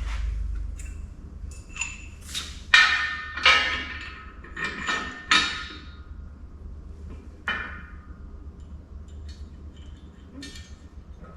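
A string of sharp metal clanks, each ringing briefly, as steel parts are handled or struck. The loudest clanks come about three to five and a half seconds in, with a lone one near eight seconds. A low steady hum runs underneath.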